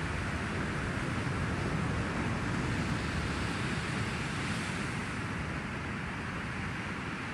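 Steady ocean surf and wind, a continuous rushing noise with no distinct strikes or tones.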